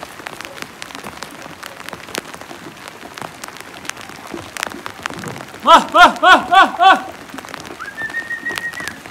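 Steady rain falling, with many sharp raindrop ticks close by. About six seconds in comes the loudest sound, a quick run of about six short pitched calls, each rising and falling in pitch, and near the end a high steady whistle lasting about a second.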